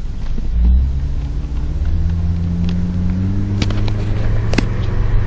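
Volvo 850 GLT 2.5's inline five-cylinder engine pulling hard under acceleration, its low note slowly rising in pitch, with a few sharp clicks.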